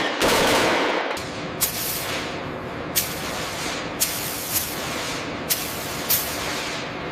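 Workshop sounds of metal parts being fitted: a burst of noise in the first second, then a steady hiss with a sharp metallic knock about every second, six or so in all.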